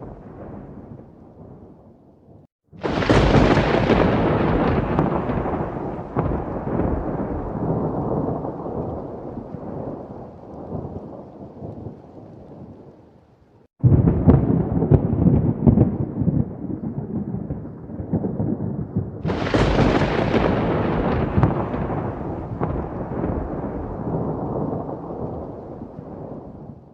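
Thunder: three sudden claps, about three seconds in, about halfway through and about two-thirds of the way through, each followed by a long rumble that slowly dies away.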